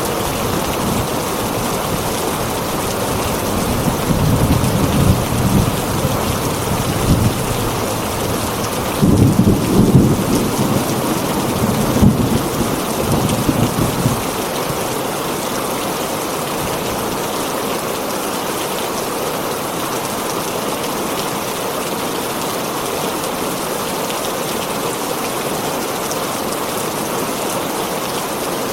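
Heavy rain drumming steadily on a tin roof, with a low roll of thunder rumbling in a few seconds in and dying away before the halfway point.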